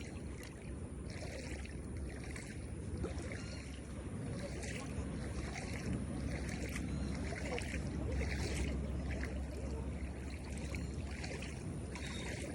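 Wind rumbling on the microphone over a steady rush of water, with a soft sound repeating roughly once a second.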